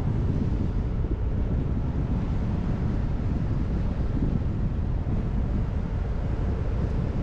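Car driving at a steady pace: an even, low rumble of road and engine noise with no change.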